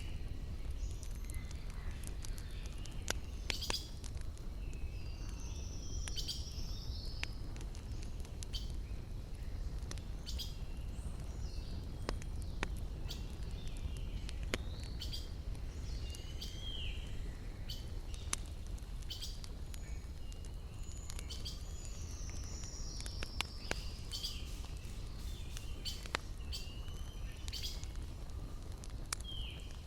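Small birds chirping and whistling again and again, with a falling whistled call twice, over the sharp pops and crackles of a wood campfire and a low steady rumble.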